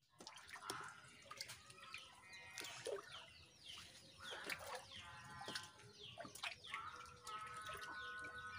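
Faint bird calls: many short falling chirps, and a longer held call from about two-thirds of the way in.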